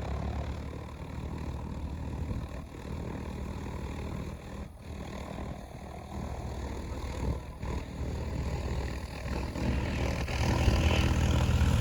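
Cessna Citation 560 Ultra's twin Pratt & Whitney JT15D turbofans on approach: a steady low rumble with a rising jet noise that grows louder from about ten seconds in.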